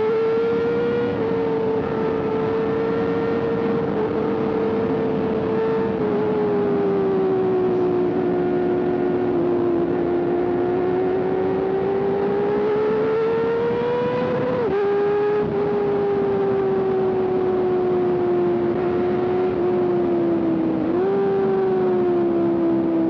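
Sport motorcycle engine running at high revs while riding, its pitch climbing and falling with the throttle, with sudden pitch steps of gear changes about fifteen seconds in and a short jump up and back down near the end. Wind rush underneath.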